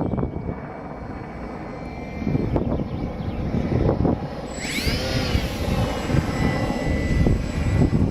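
Wind buffeting the microphone, with a radio-controlled model plane's motor and propeller heard over it: about four and a half seconds in, a high whine that bends up and down in pitch as the plane passes close by.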